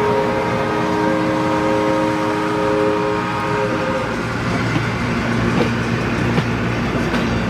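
Locomotive air horn sounding a steady chord that stops about four seconds in, over the rolling of passenger cars going by. After it, the low rumble of the cars' wheels on the rails, with a few sharp clicks.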